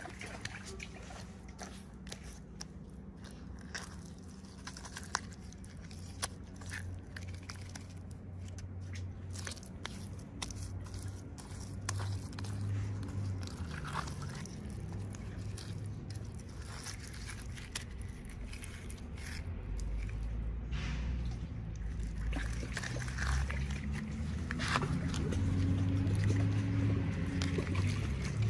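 Small crinkles and clicks of plastic packaging being handled and opened, over a steady low hum that grows louder in the second half.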